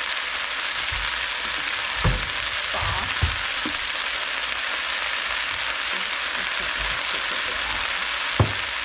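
Water spinach and garlic sizzling steadily in a wok, with three short knocks about two, three and eight seconds in.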